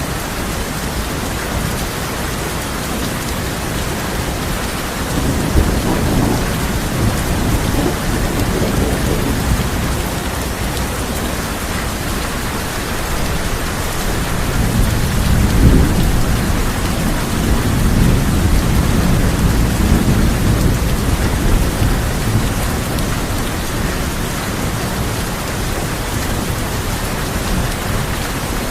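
Steady heavy rain hissing on a tin roof, with two long rolls of thunder rumbling low: one about five seconds in, and a louder one starting about fourteen seconds in and fading by the twenty-second mark.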